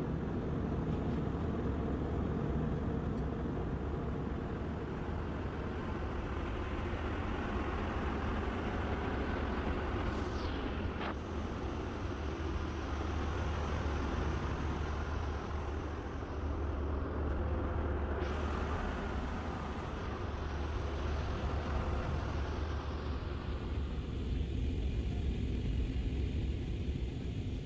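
Steady cabin noise of an Airbus A319 in flight: a low rumble of engines and airflow with a lighter hiss above it. The hiss thins out near the end.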